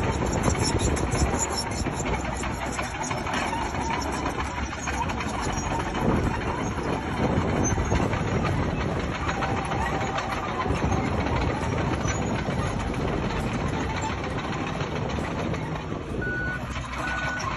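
Bulldozer's diesel engine running steadily under work, with a few short, evenly spaced beeps near the end.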